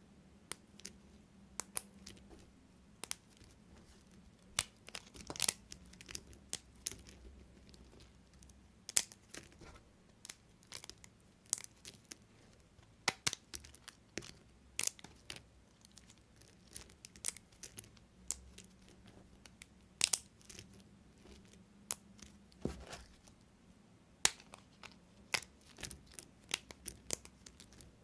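Knife cutting through bars of soap, with a quick, irregular run of crisp cracks and crunches, several a second.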